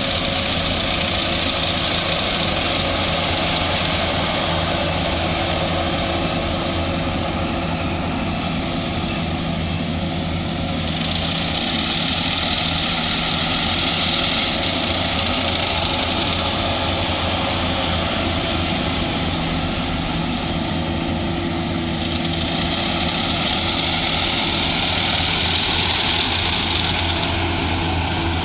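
Engine of a harvesting machine running steadily at a constant speed, with a higher hiss that swells and fades every ten seconds or so.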